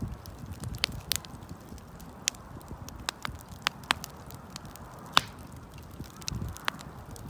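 Wood campfire crackling, with irregular sharp pops and snaps, the loudest about five seconds in, over a low rushing of the burning fire.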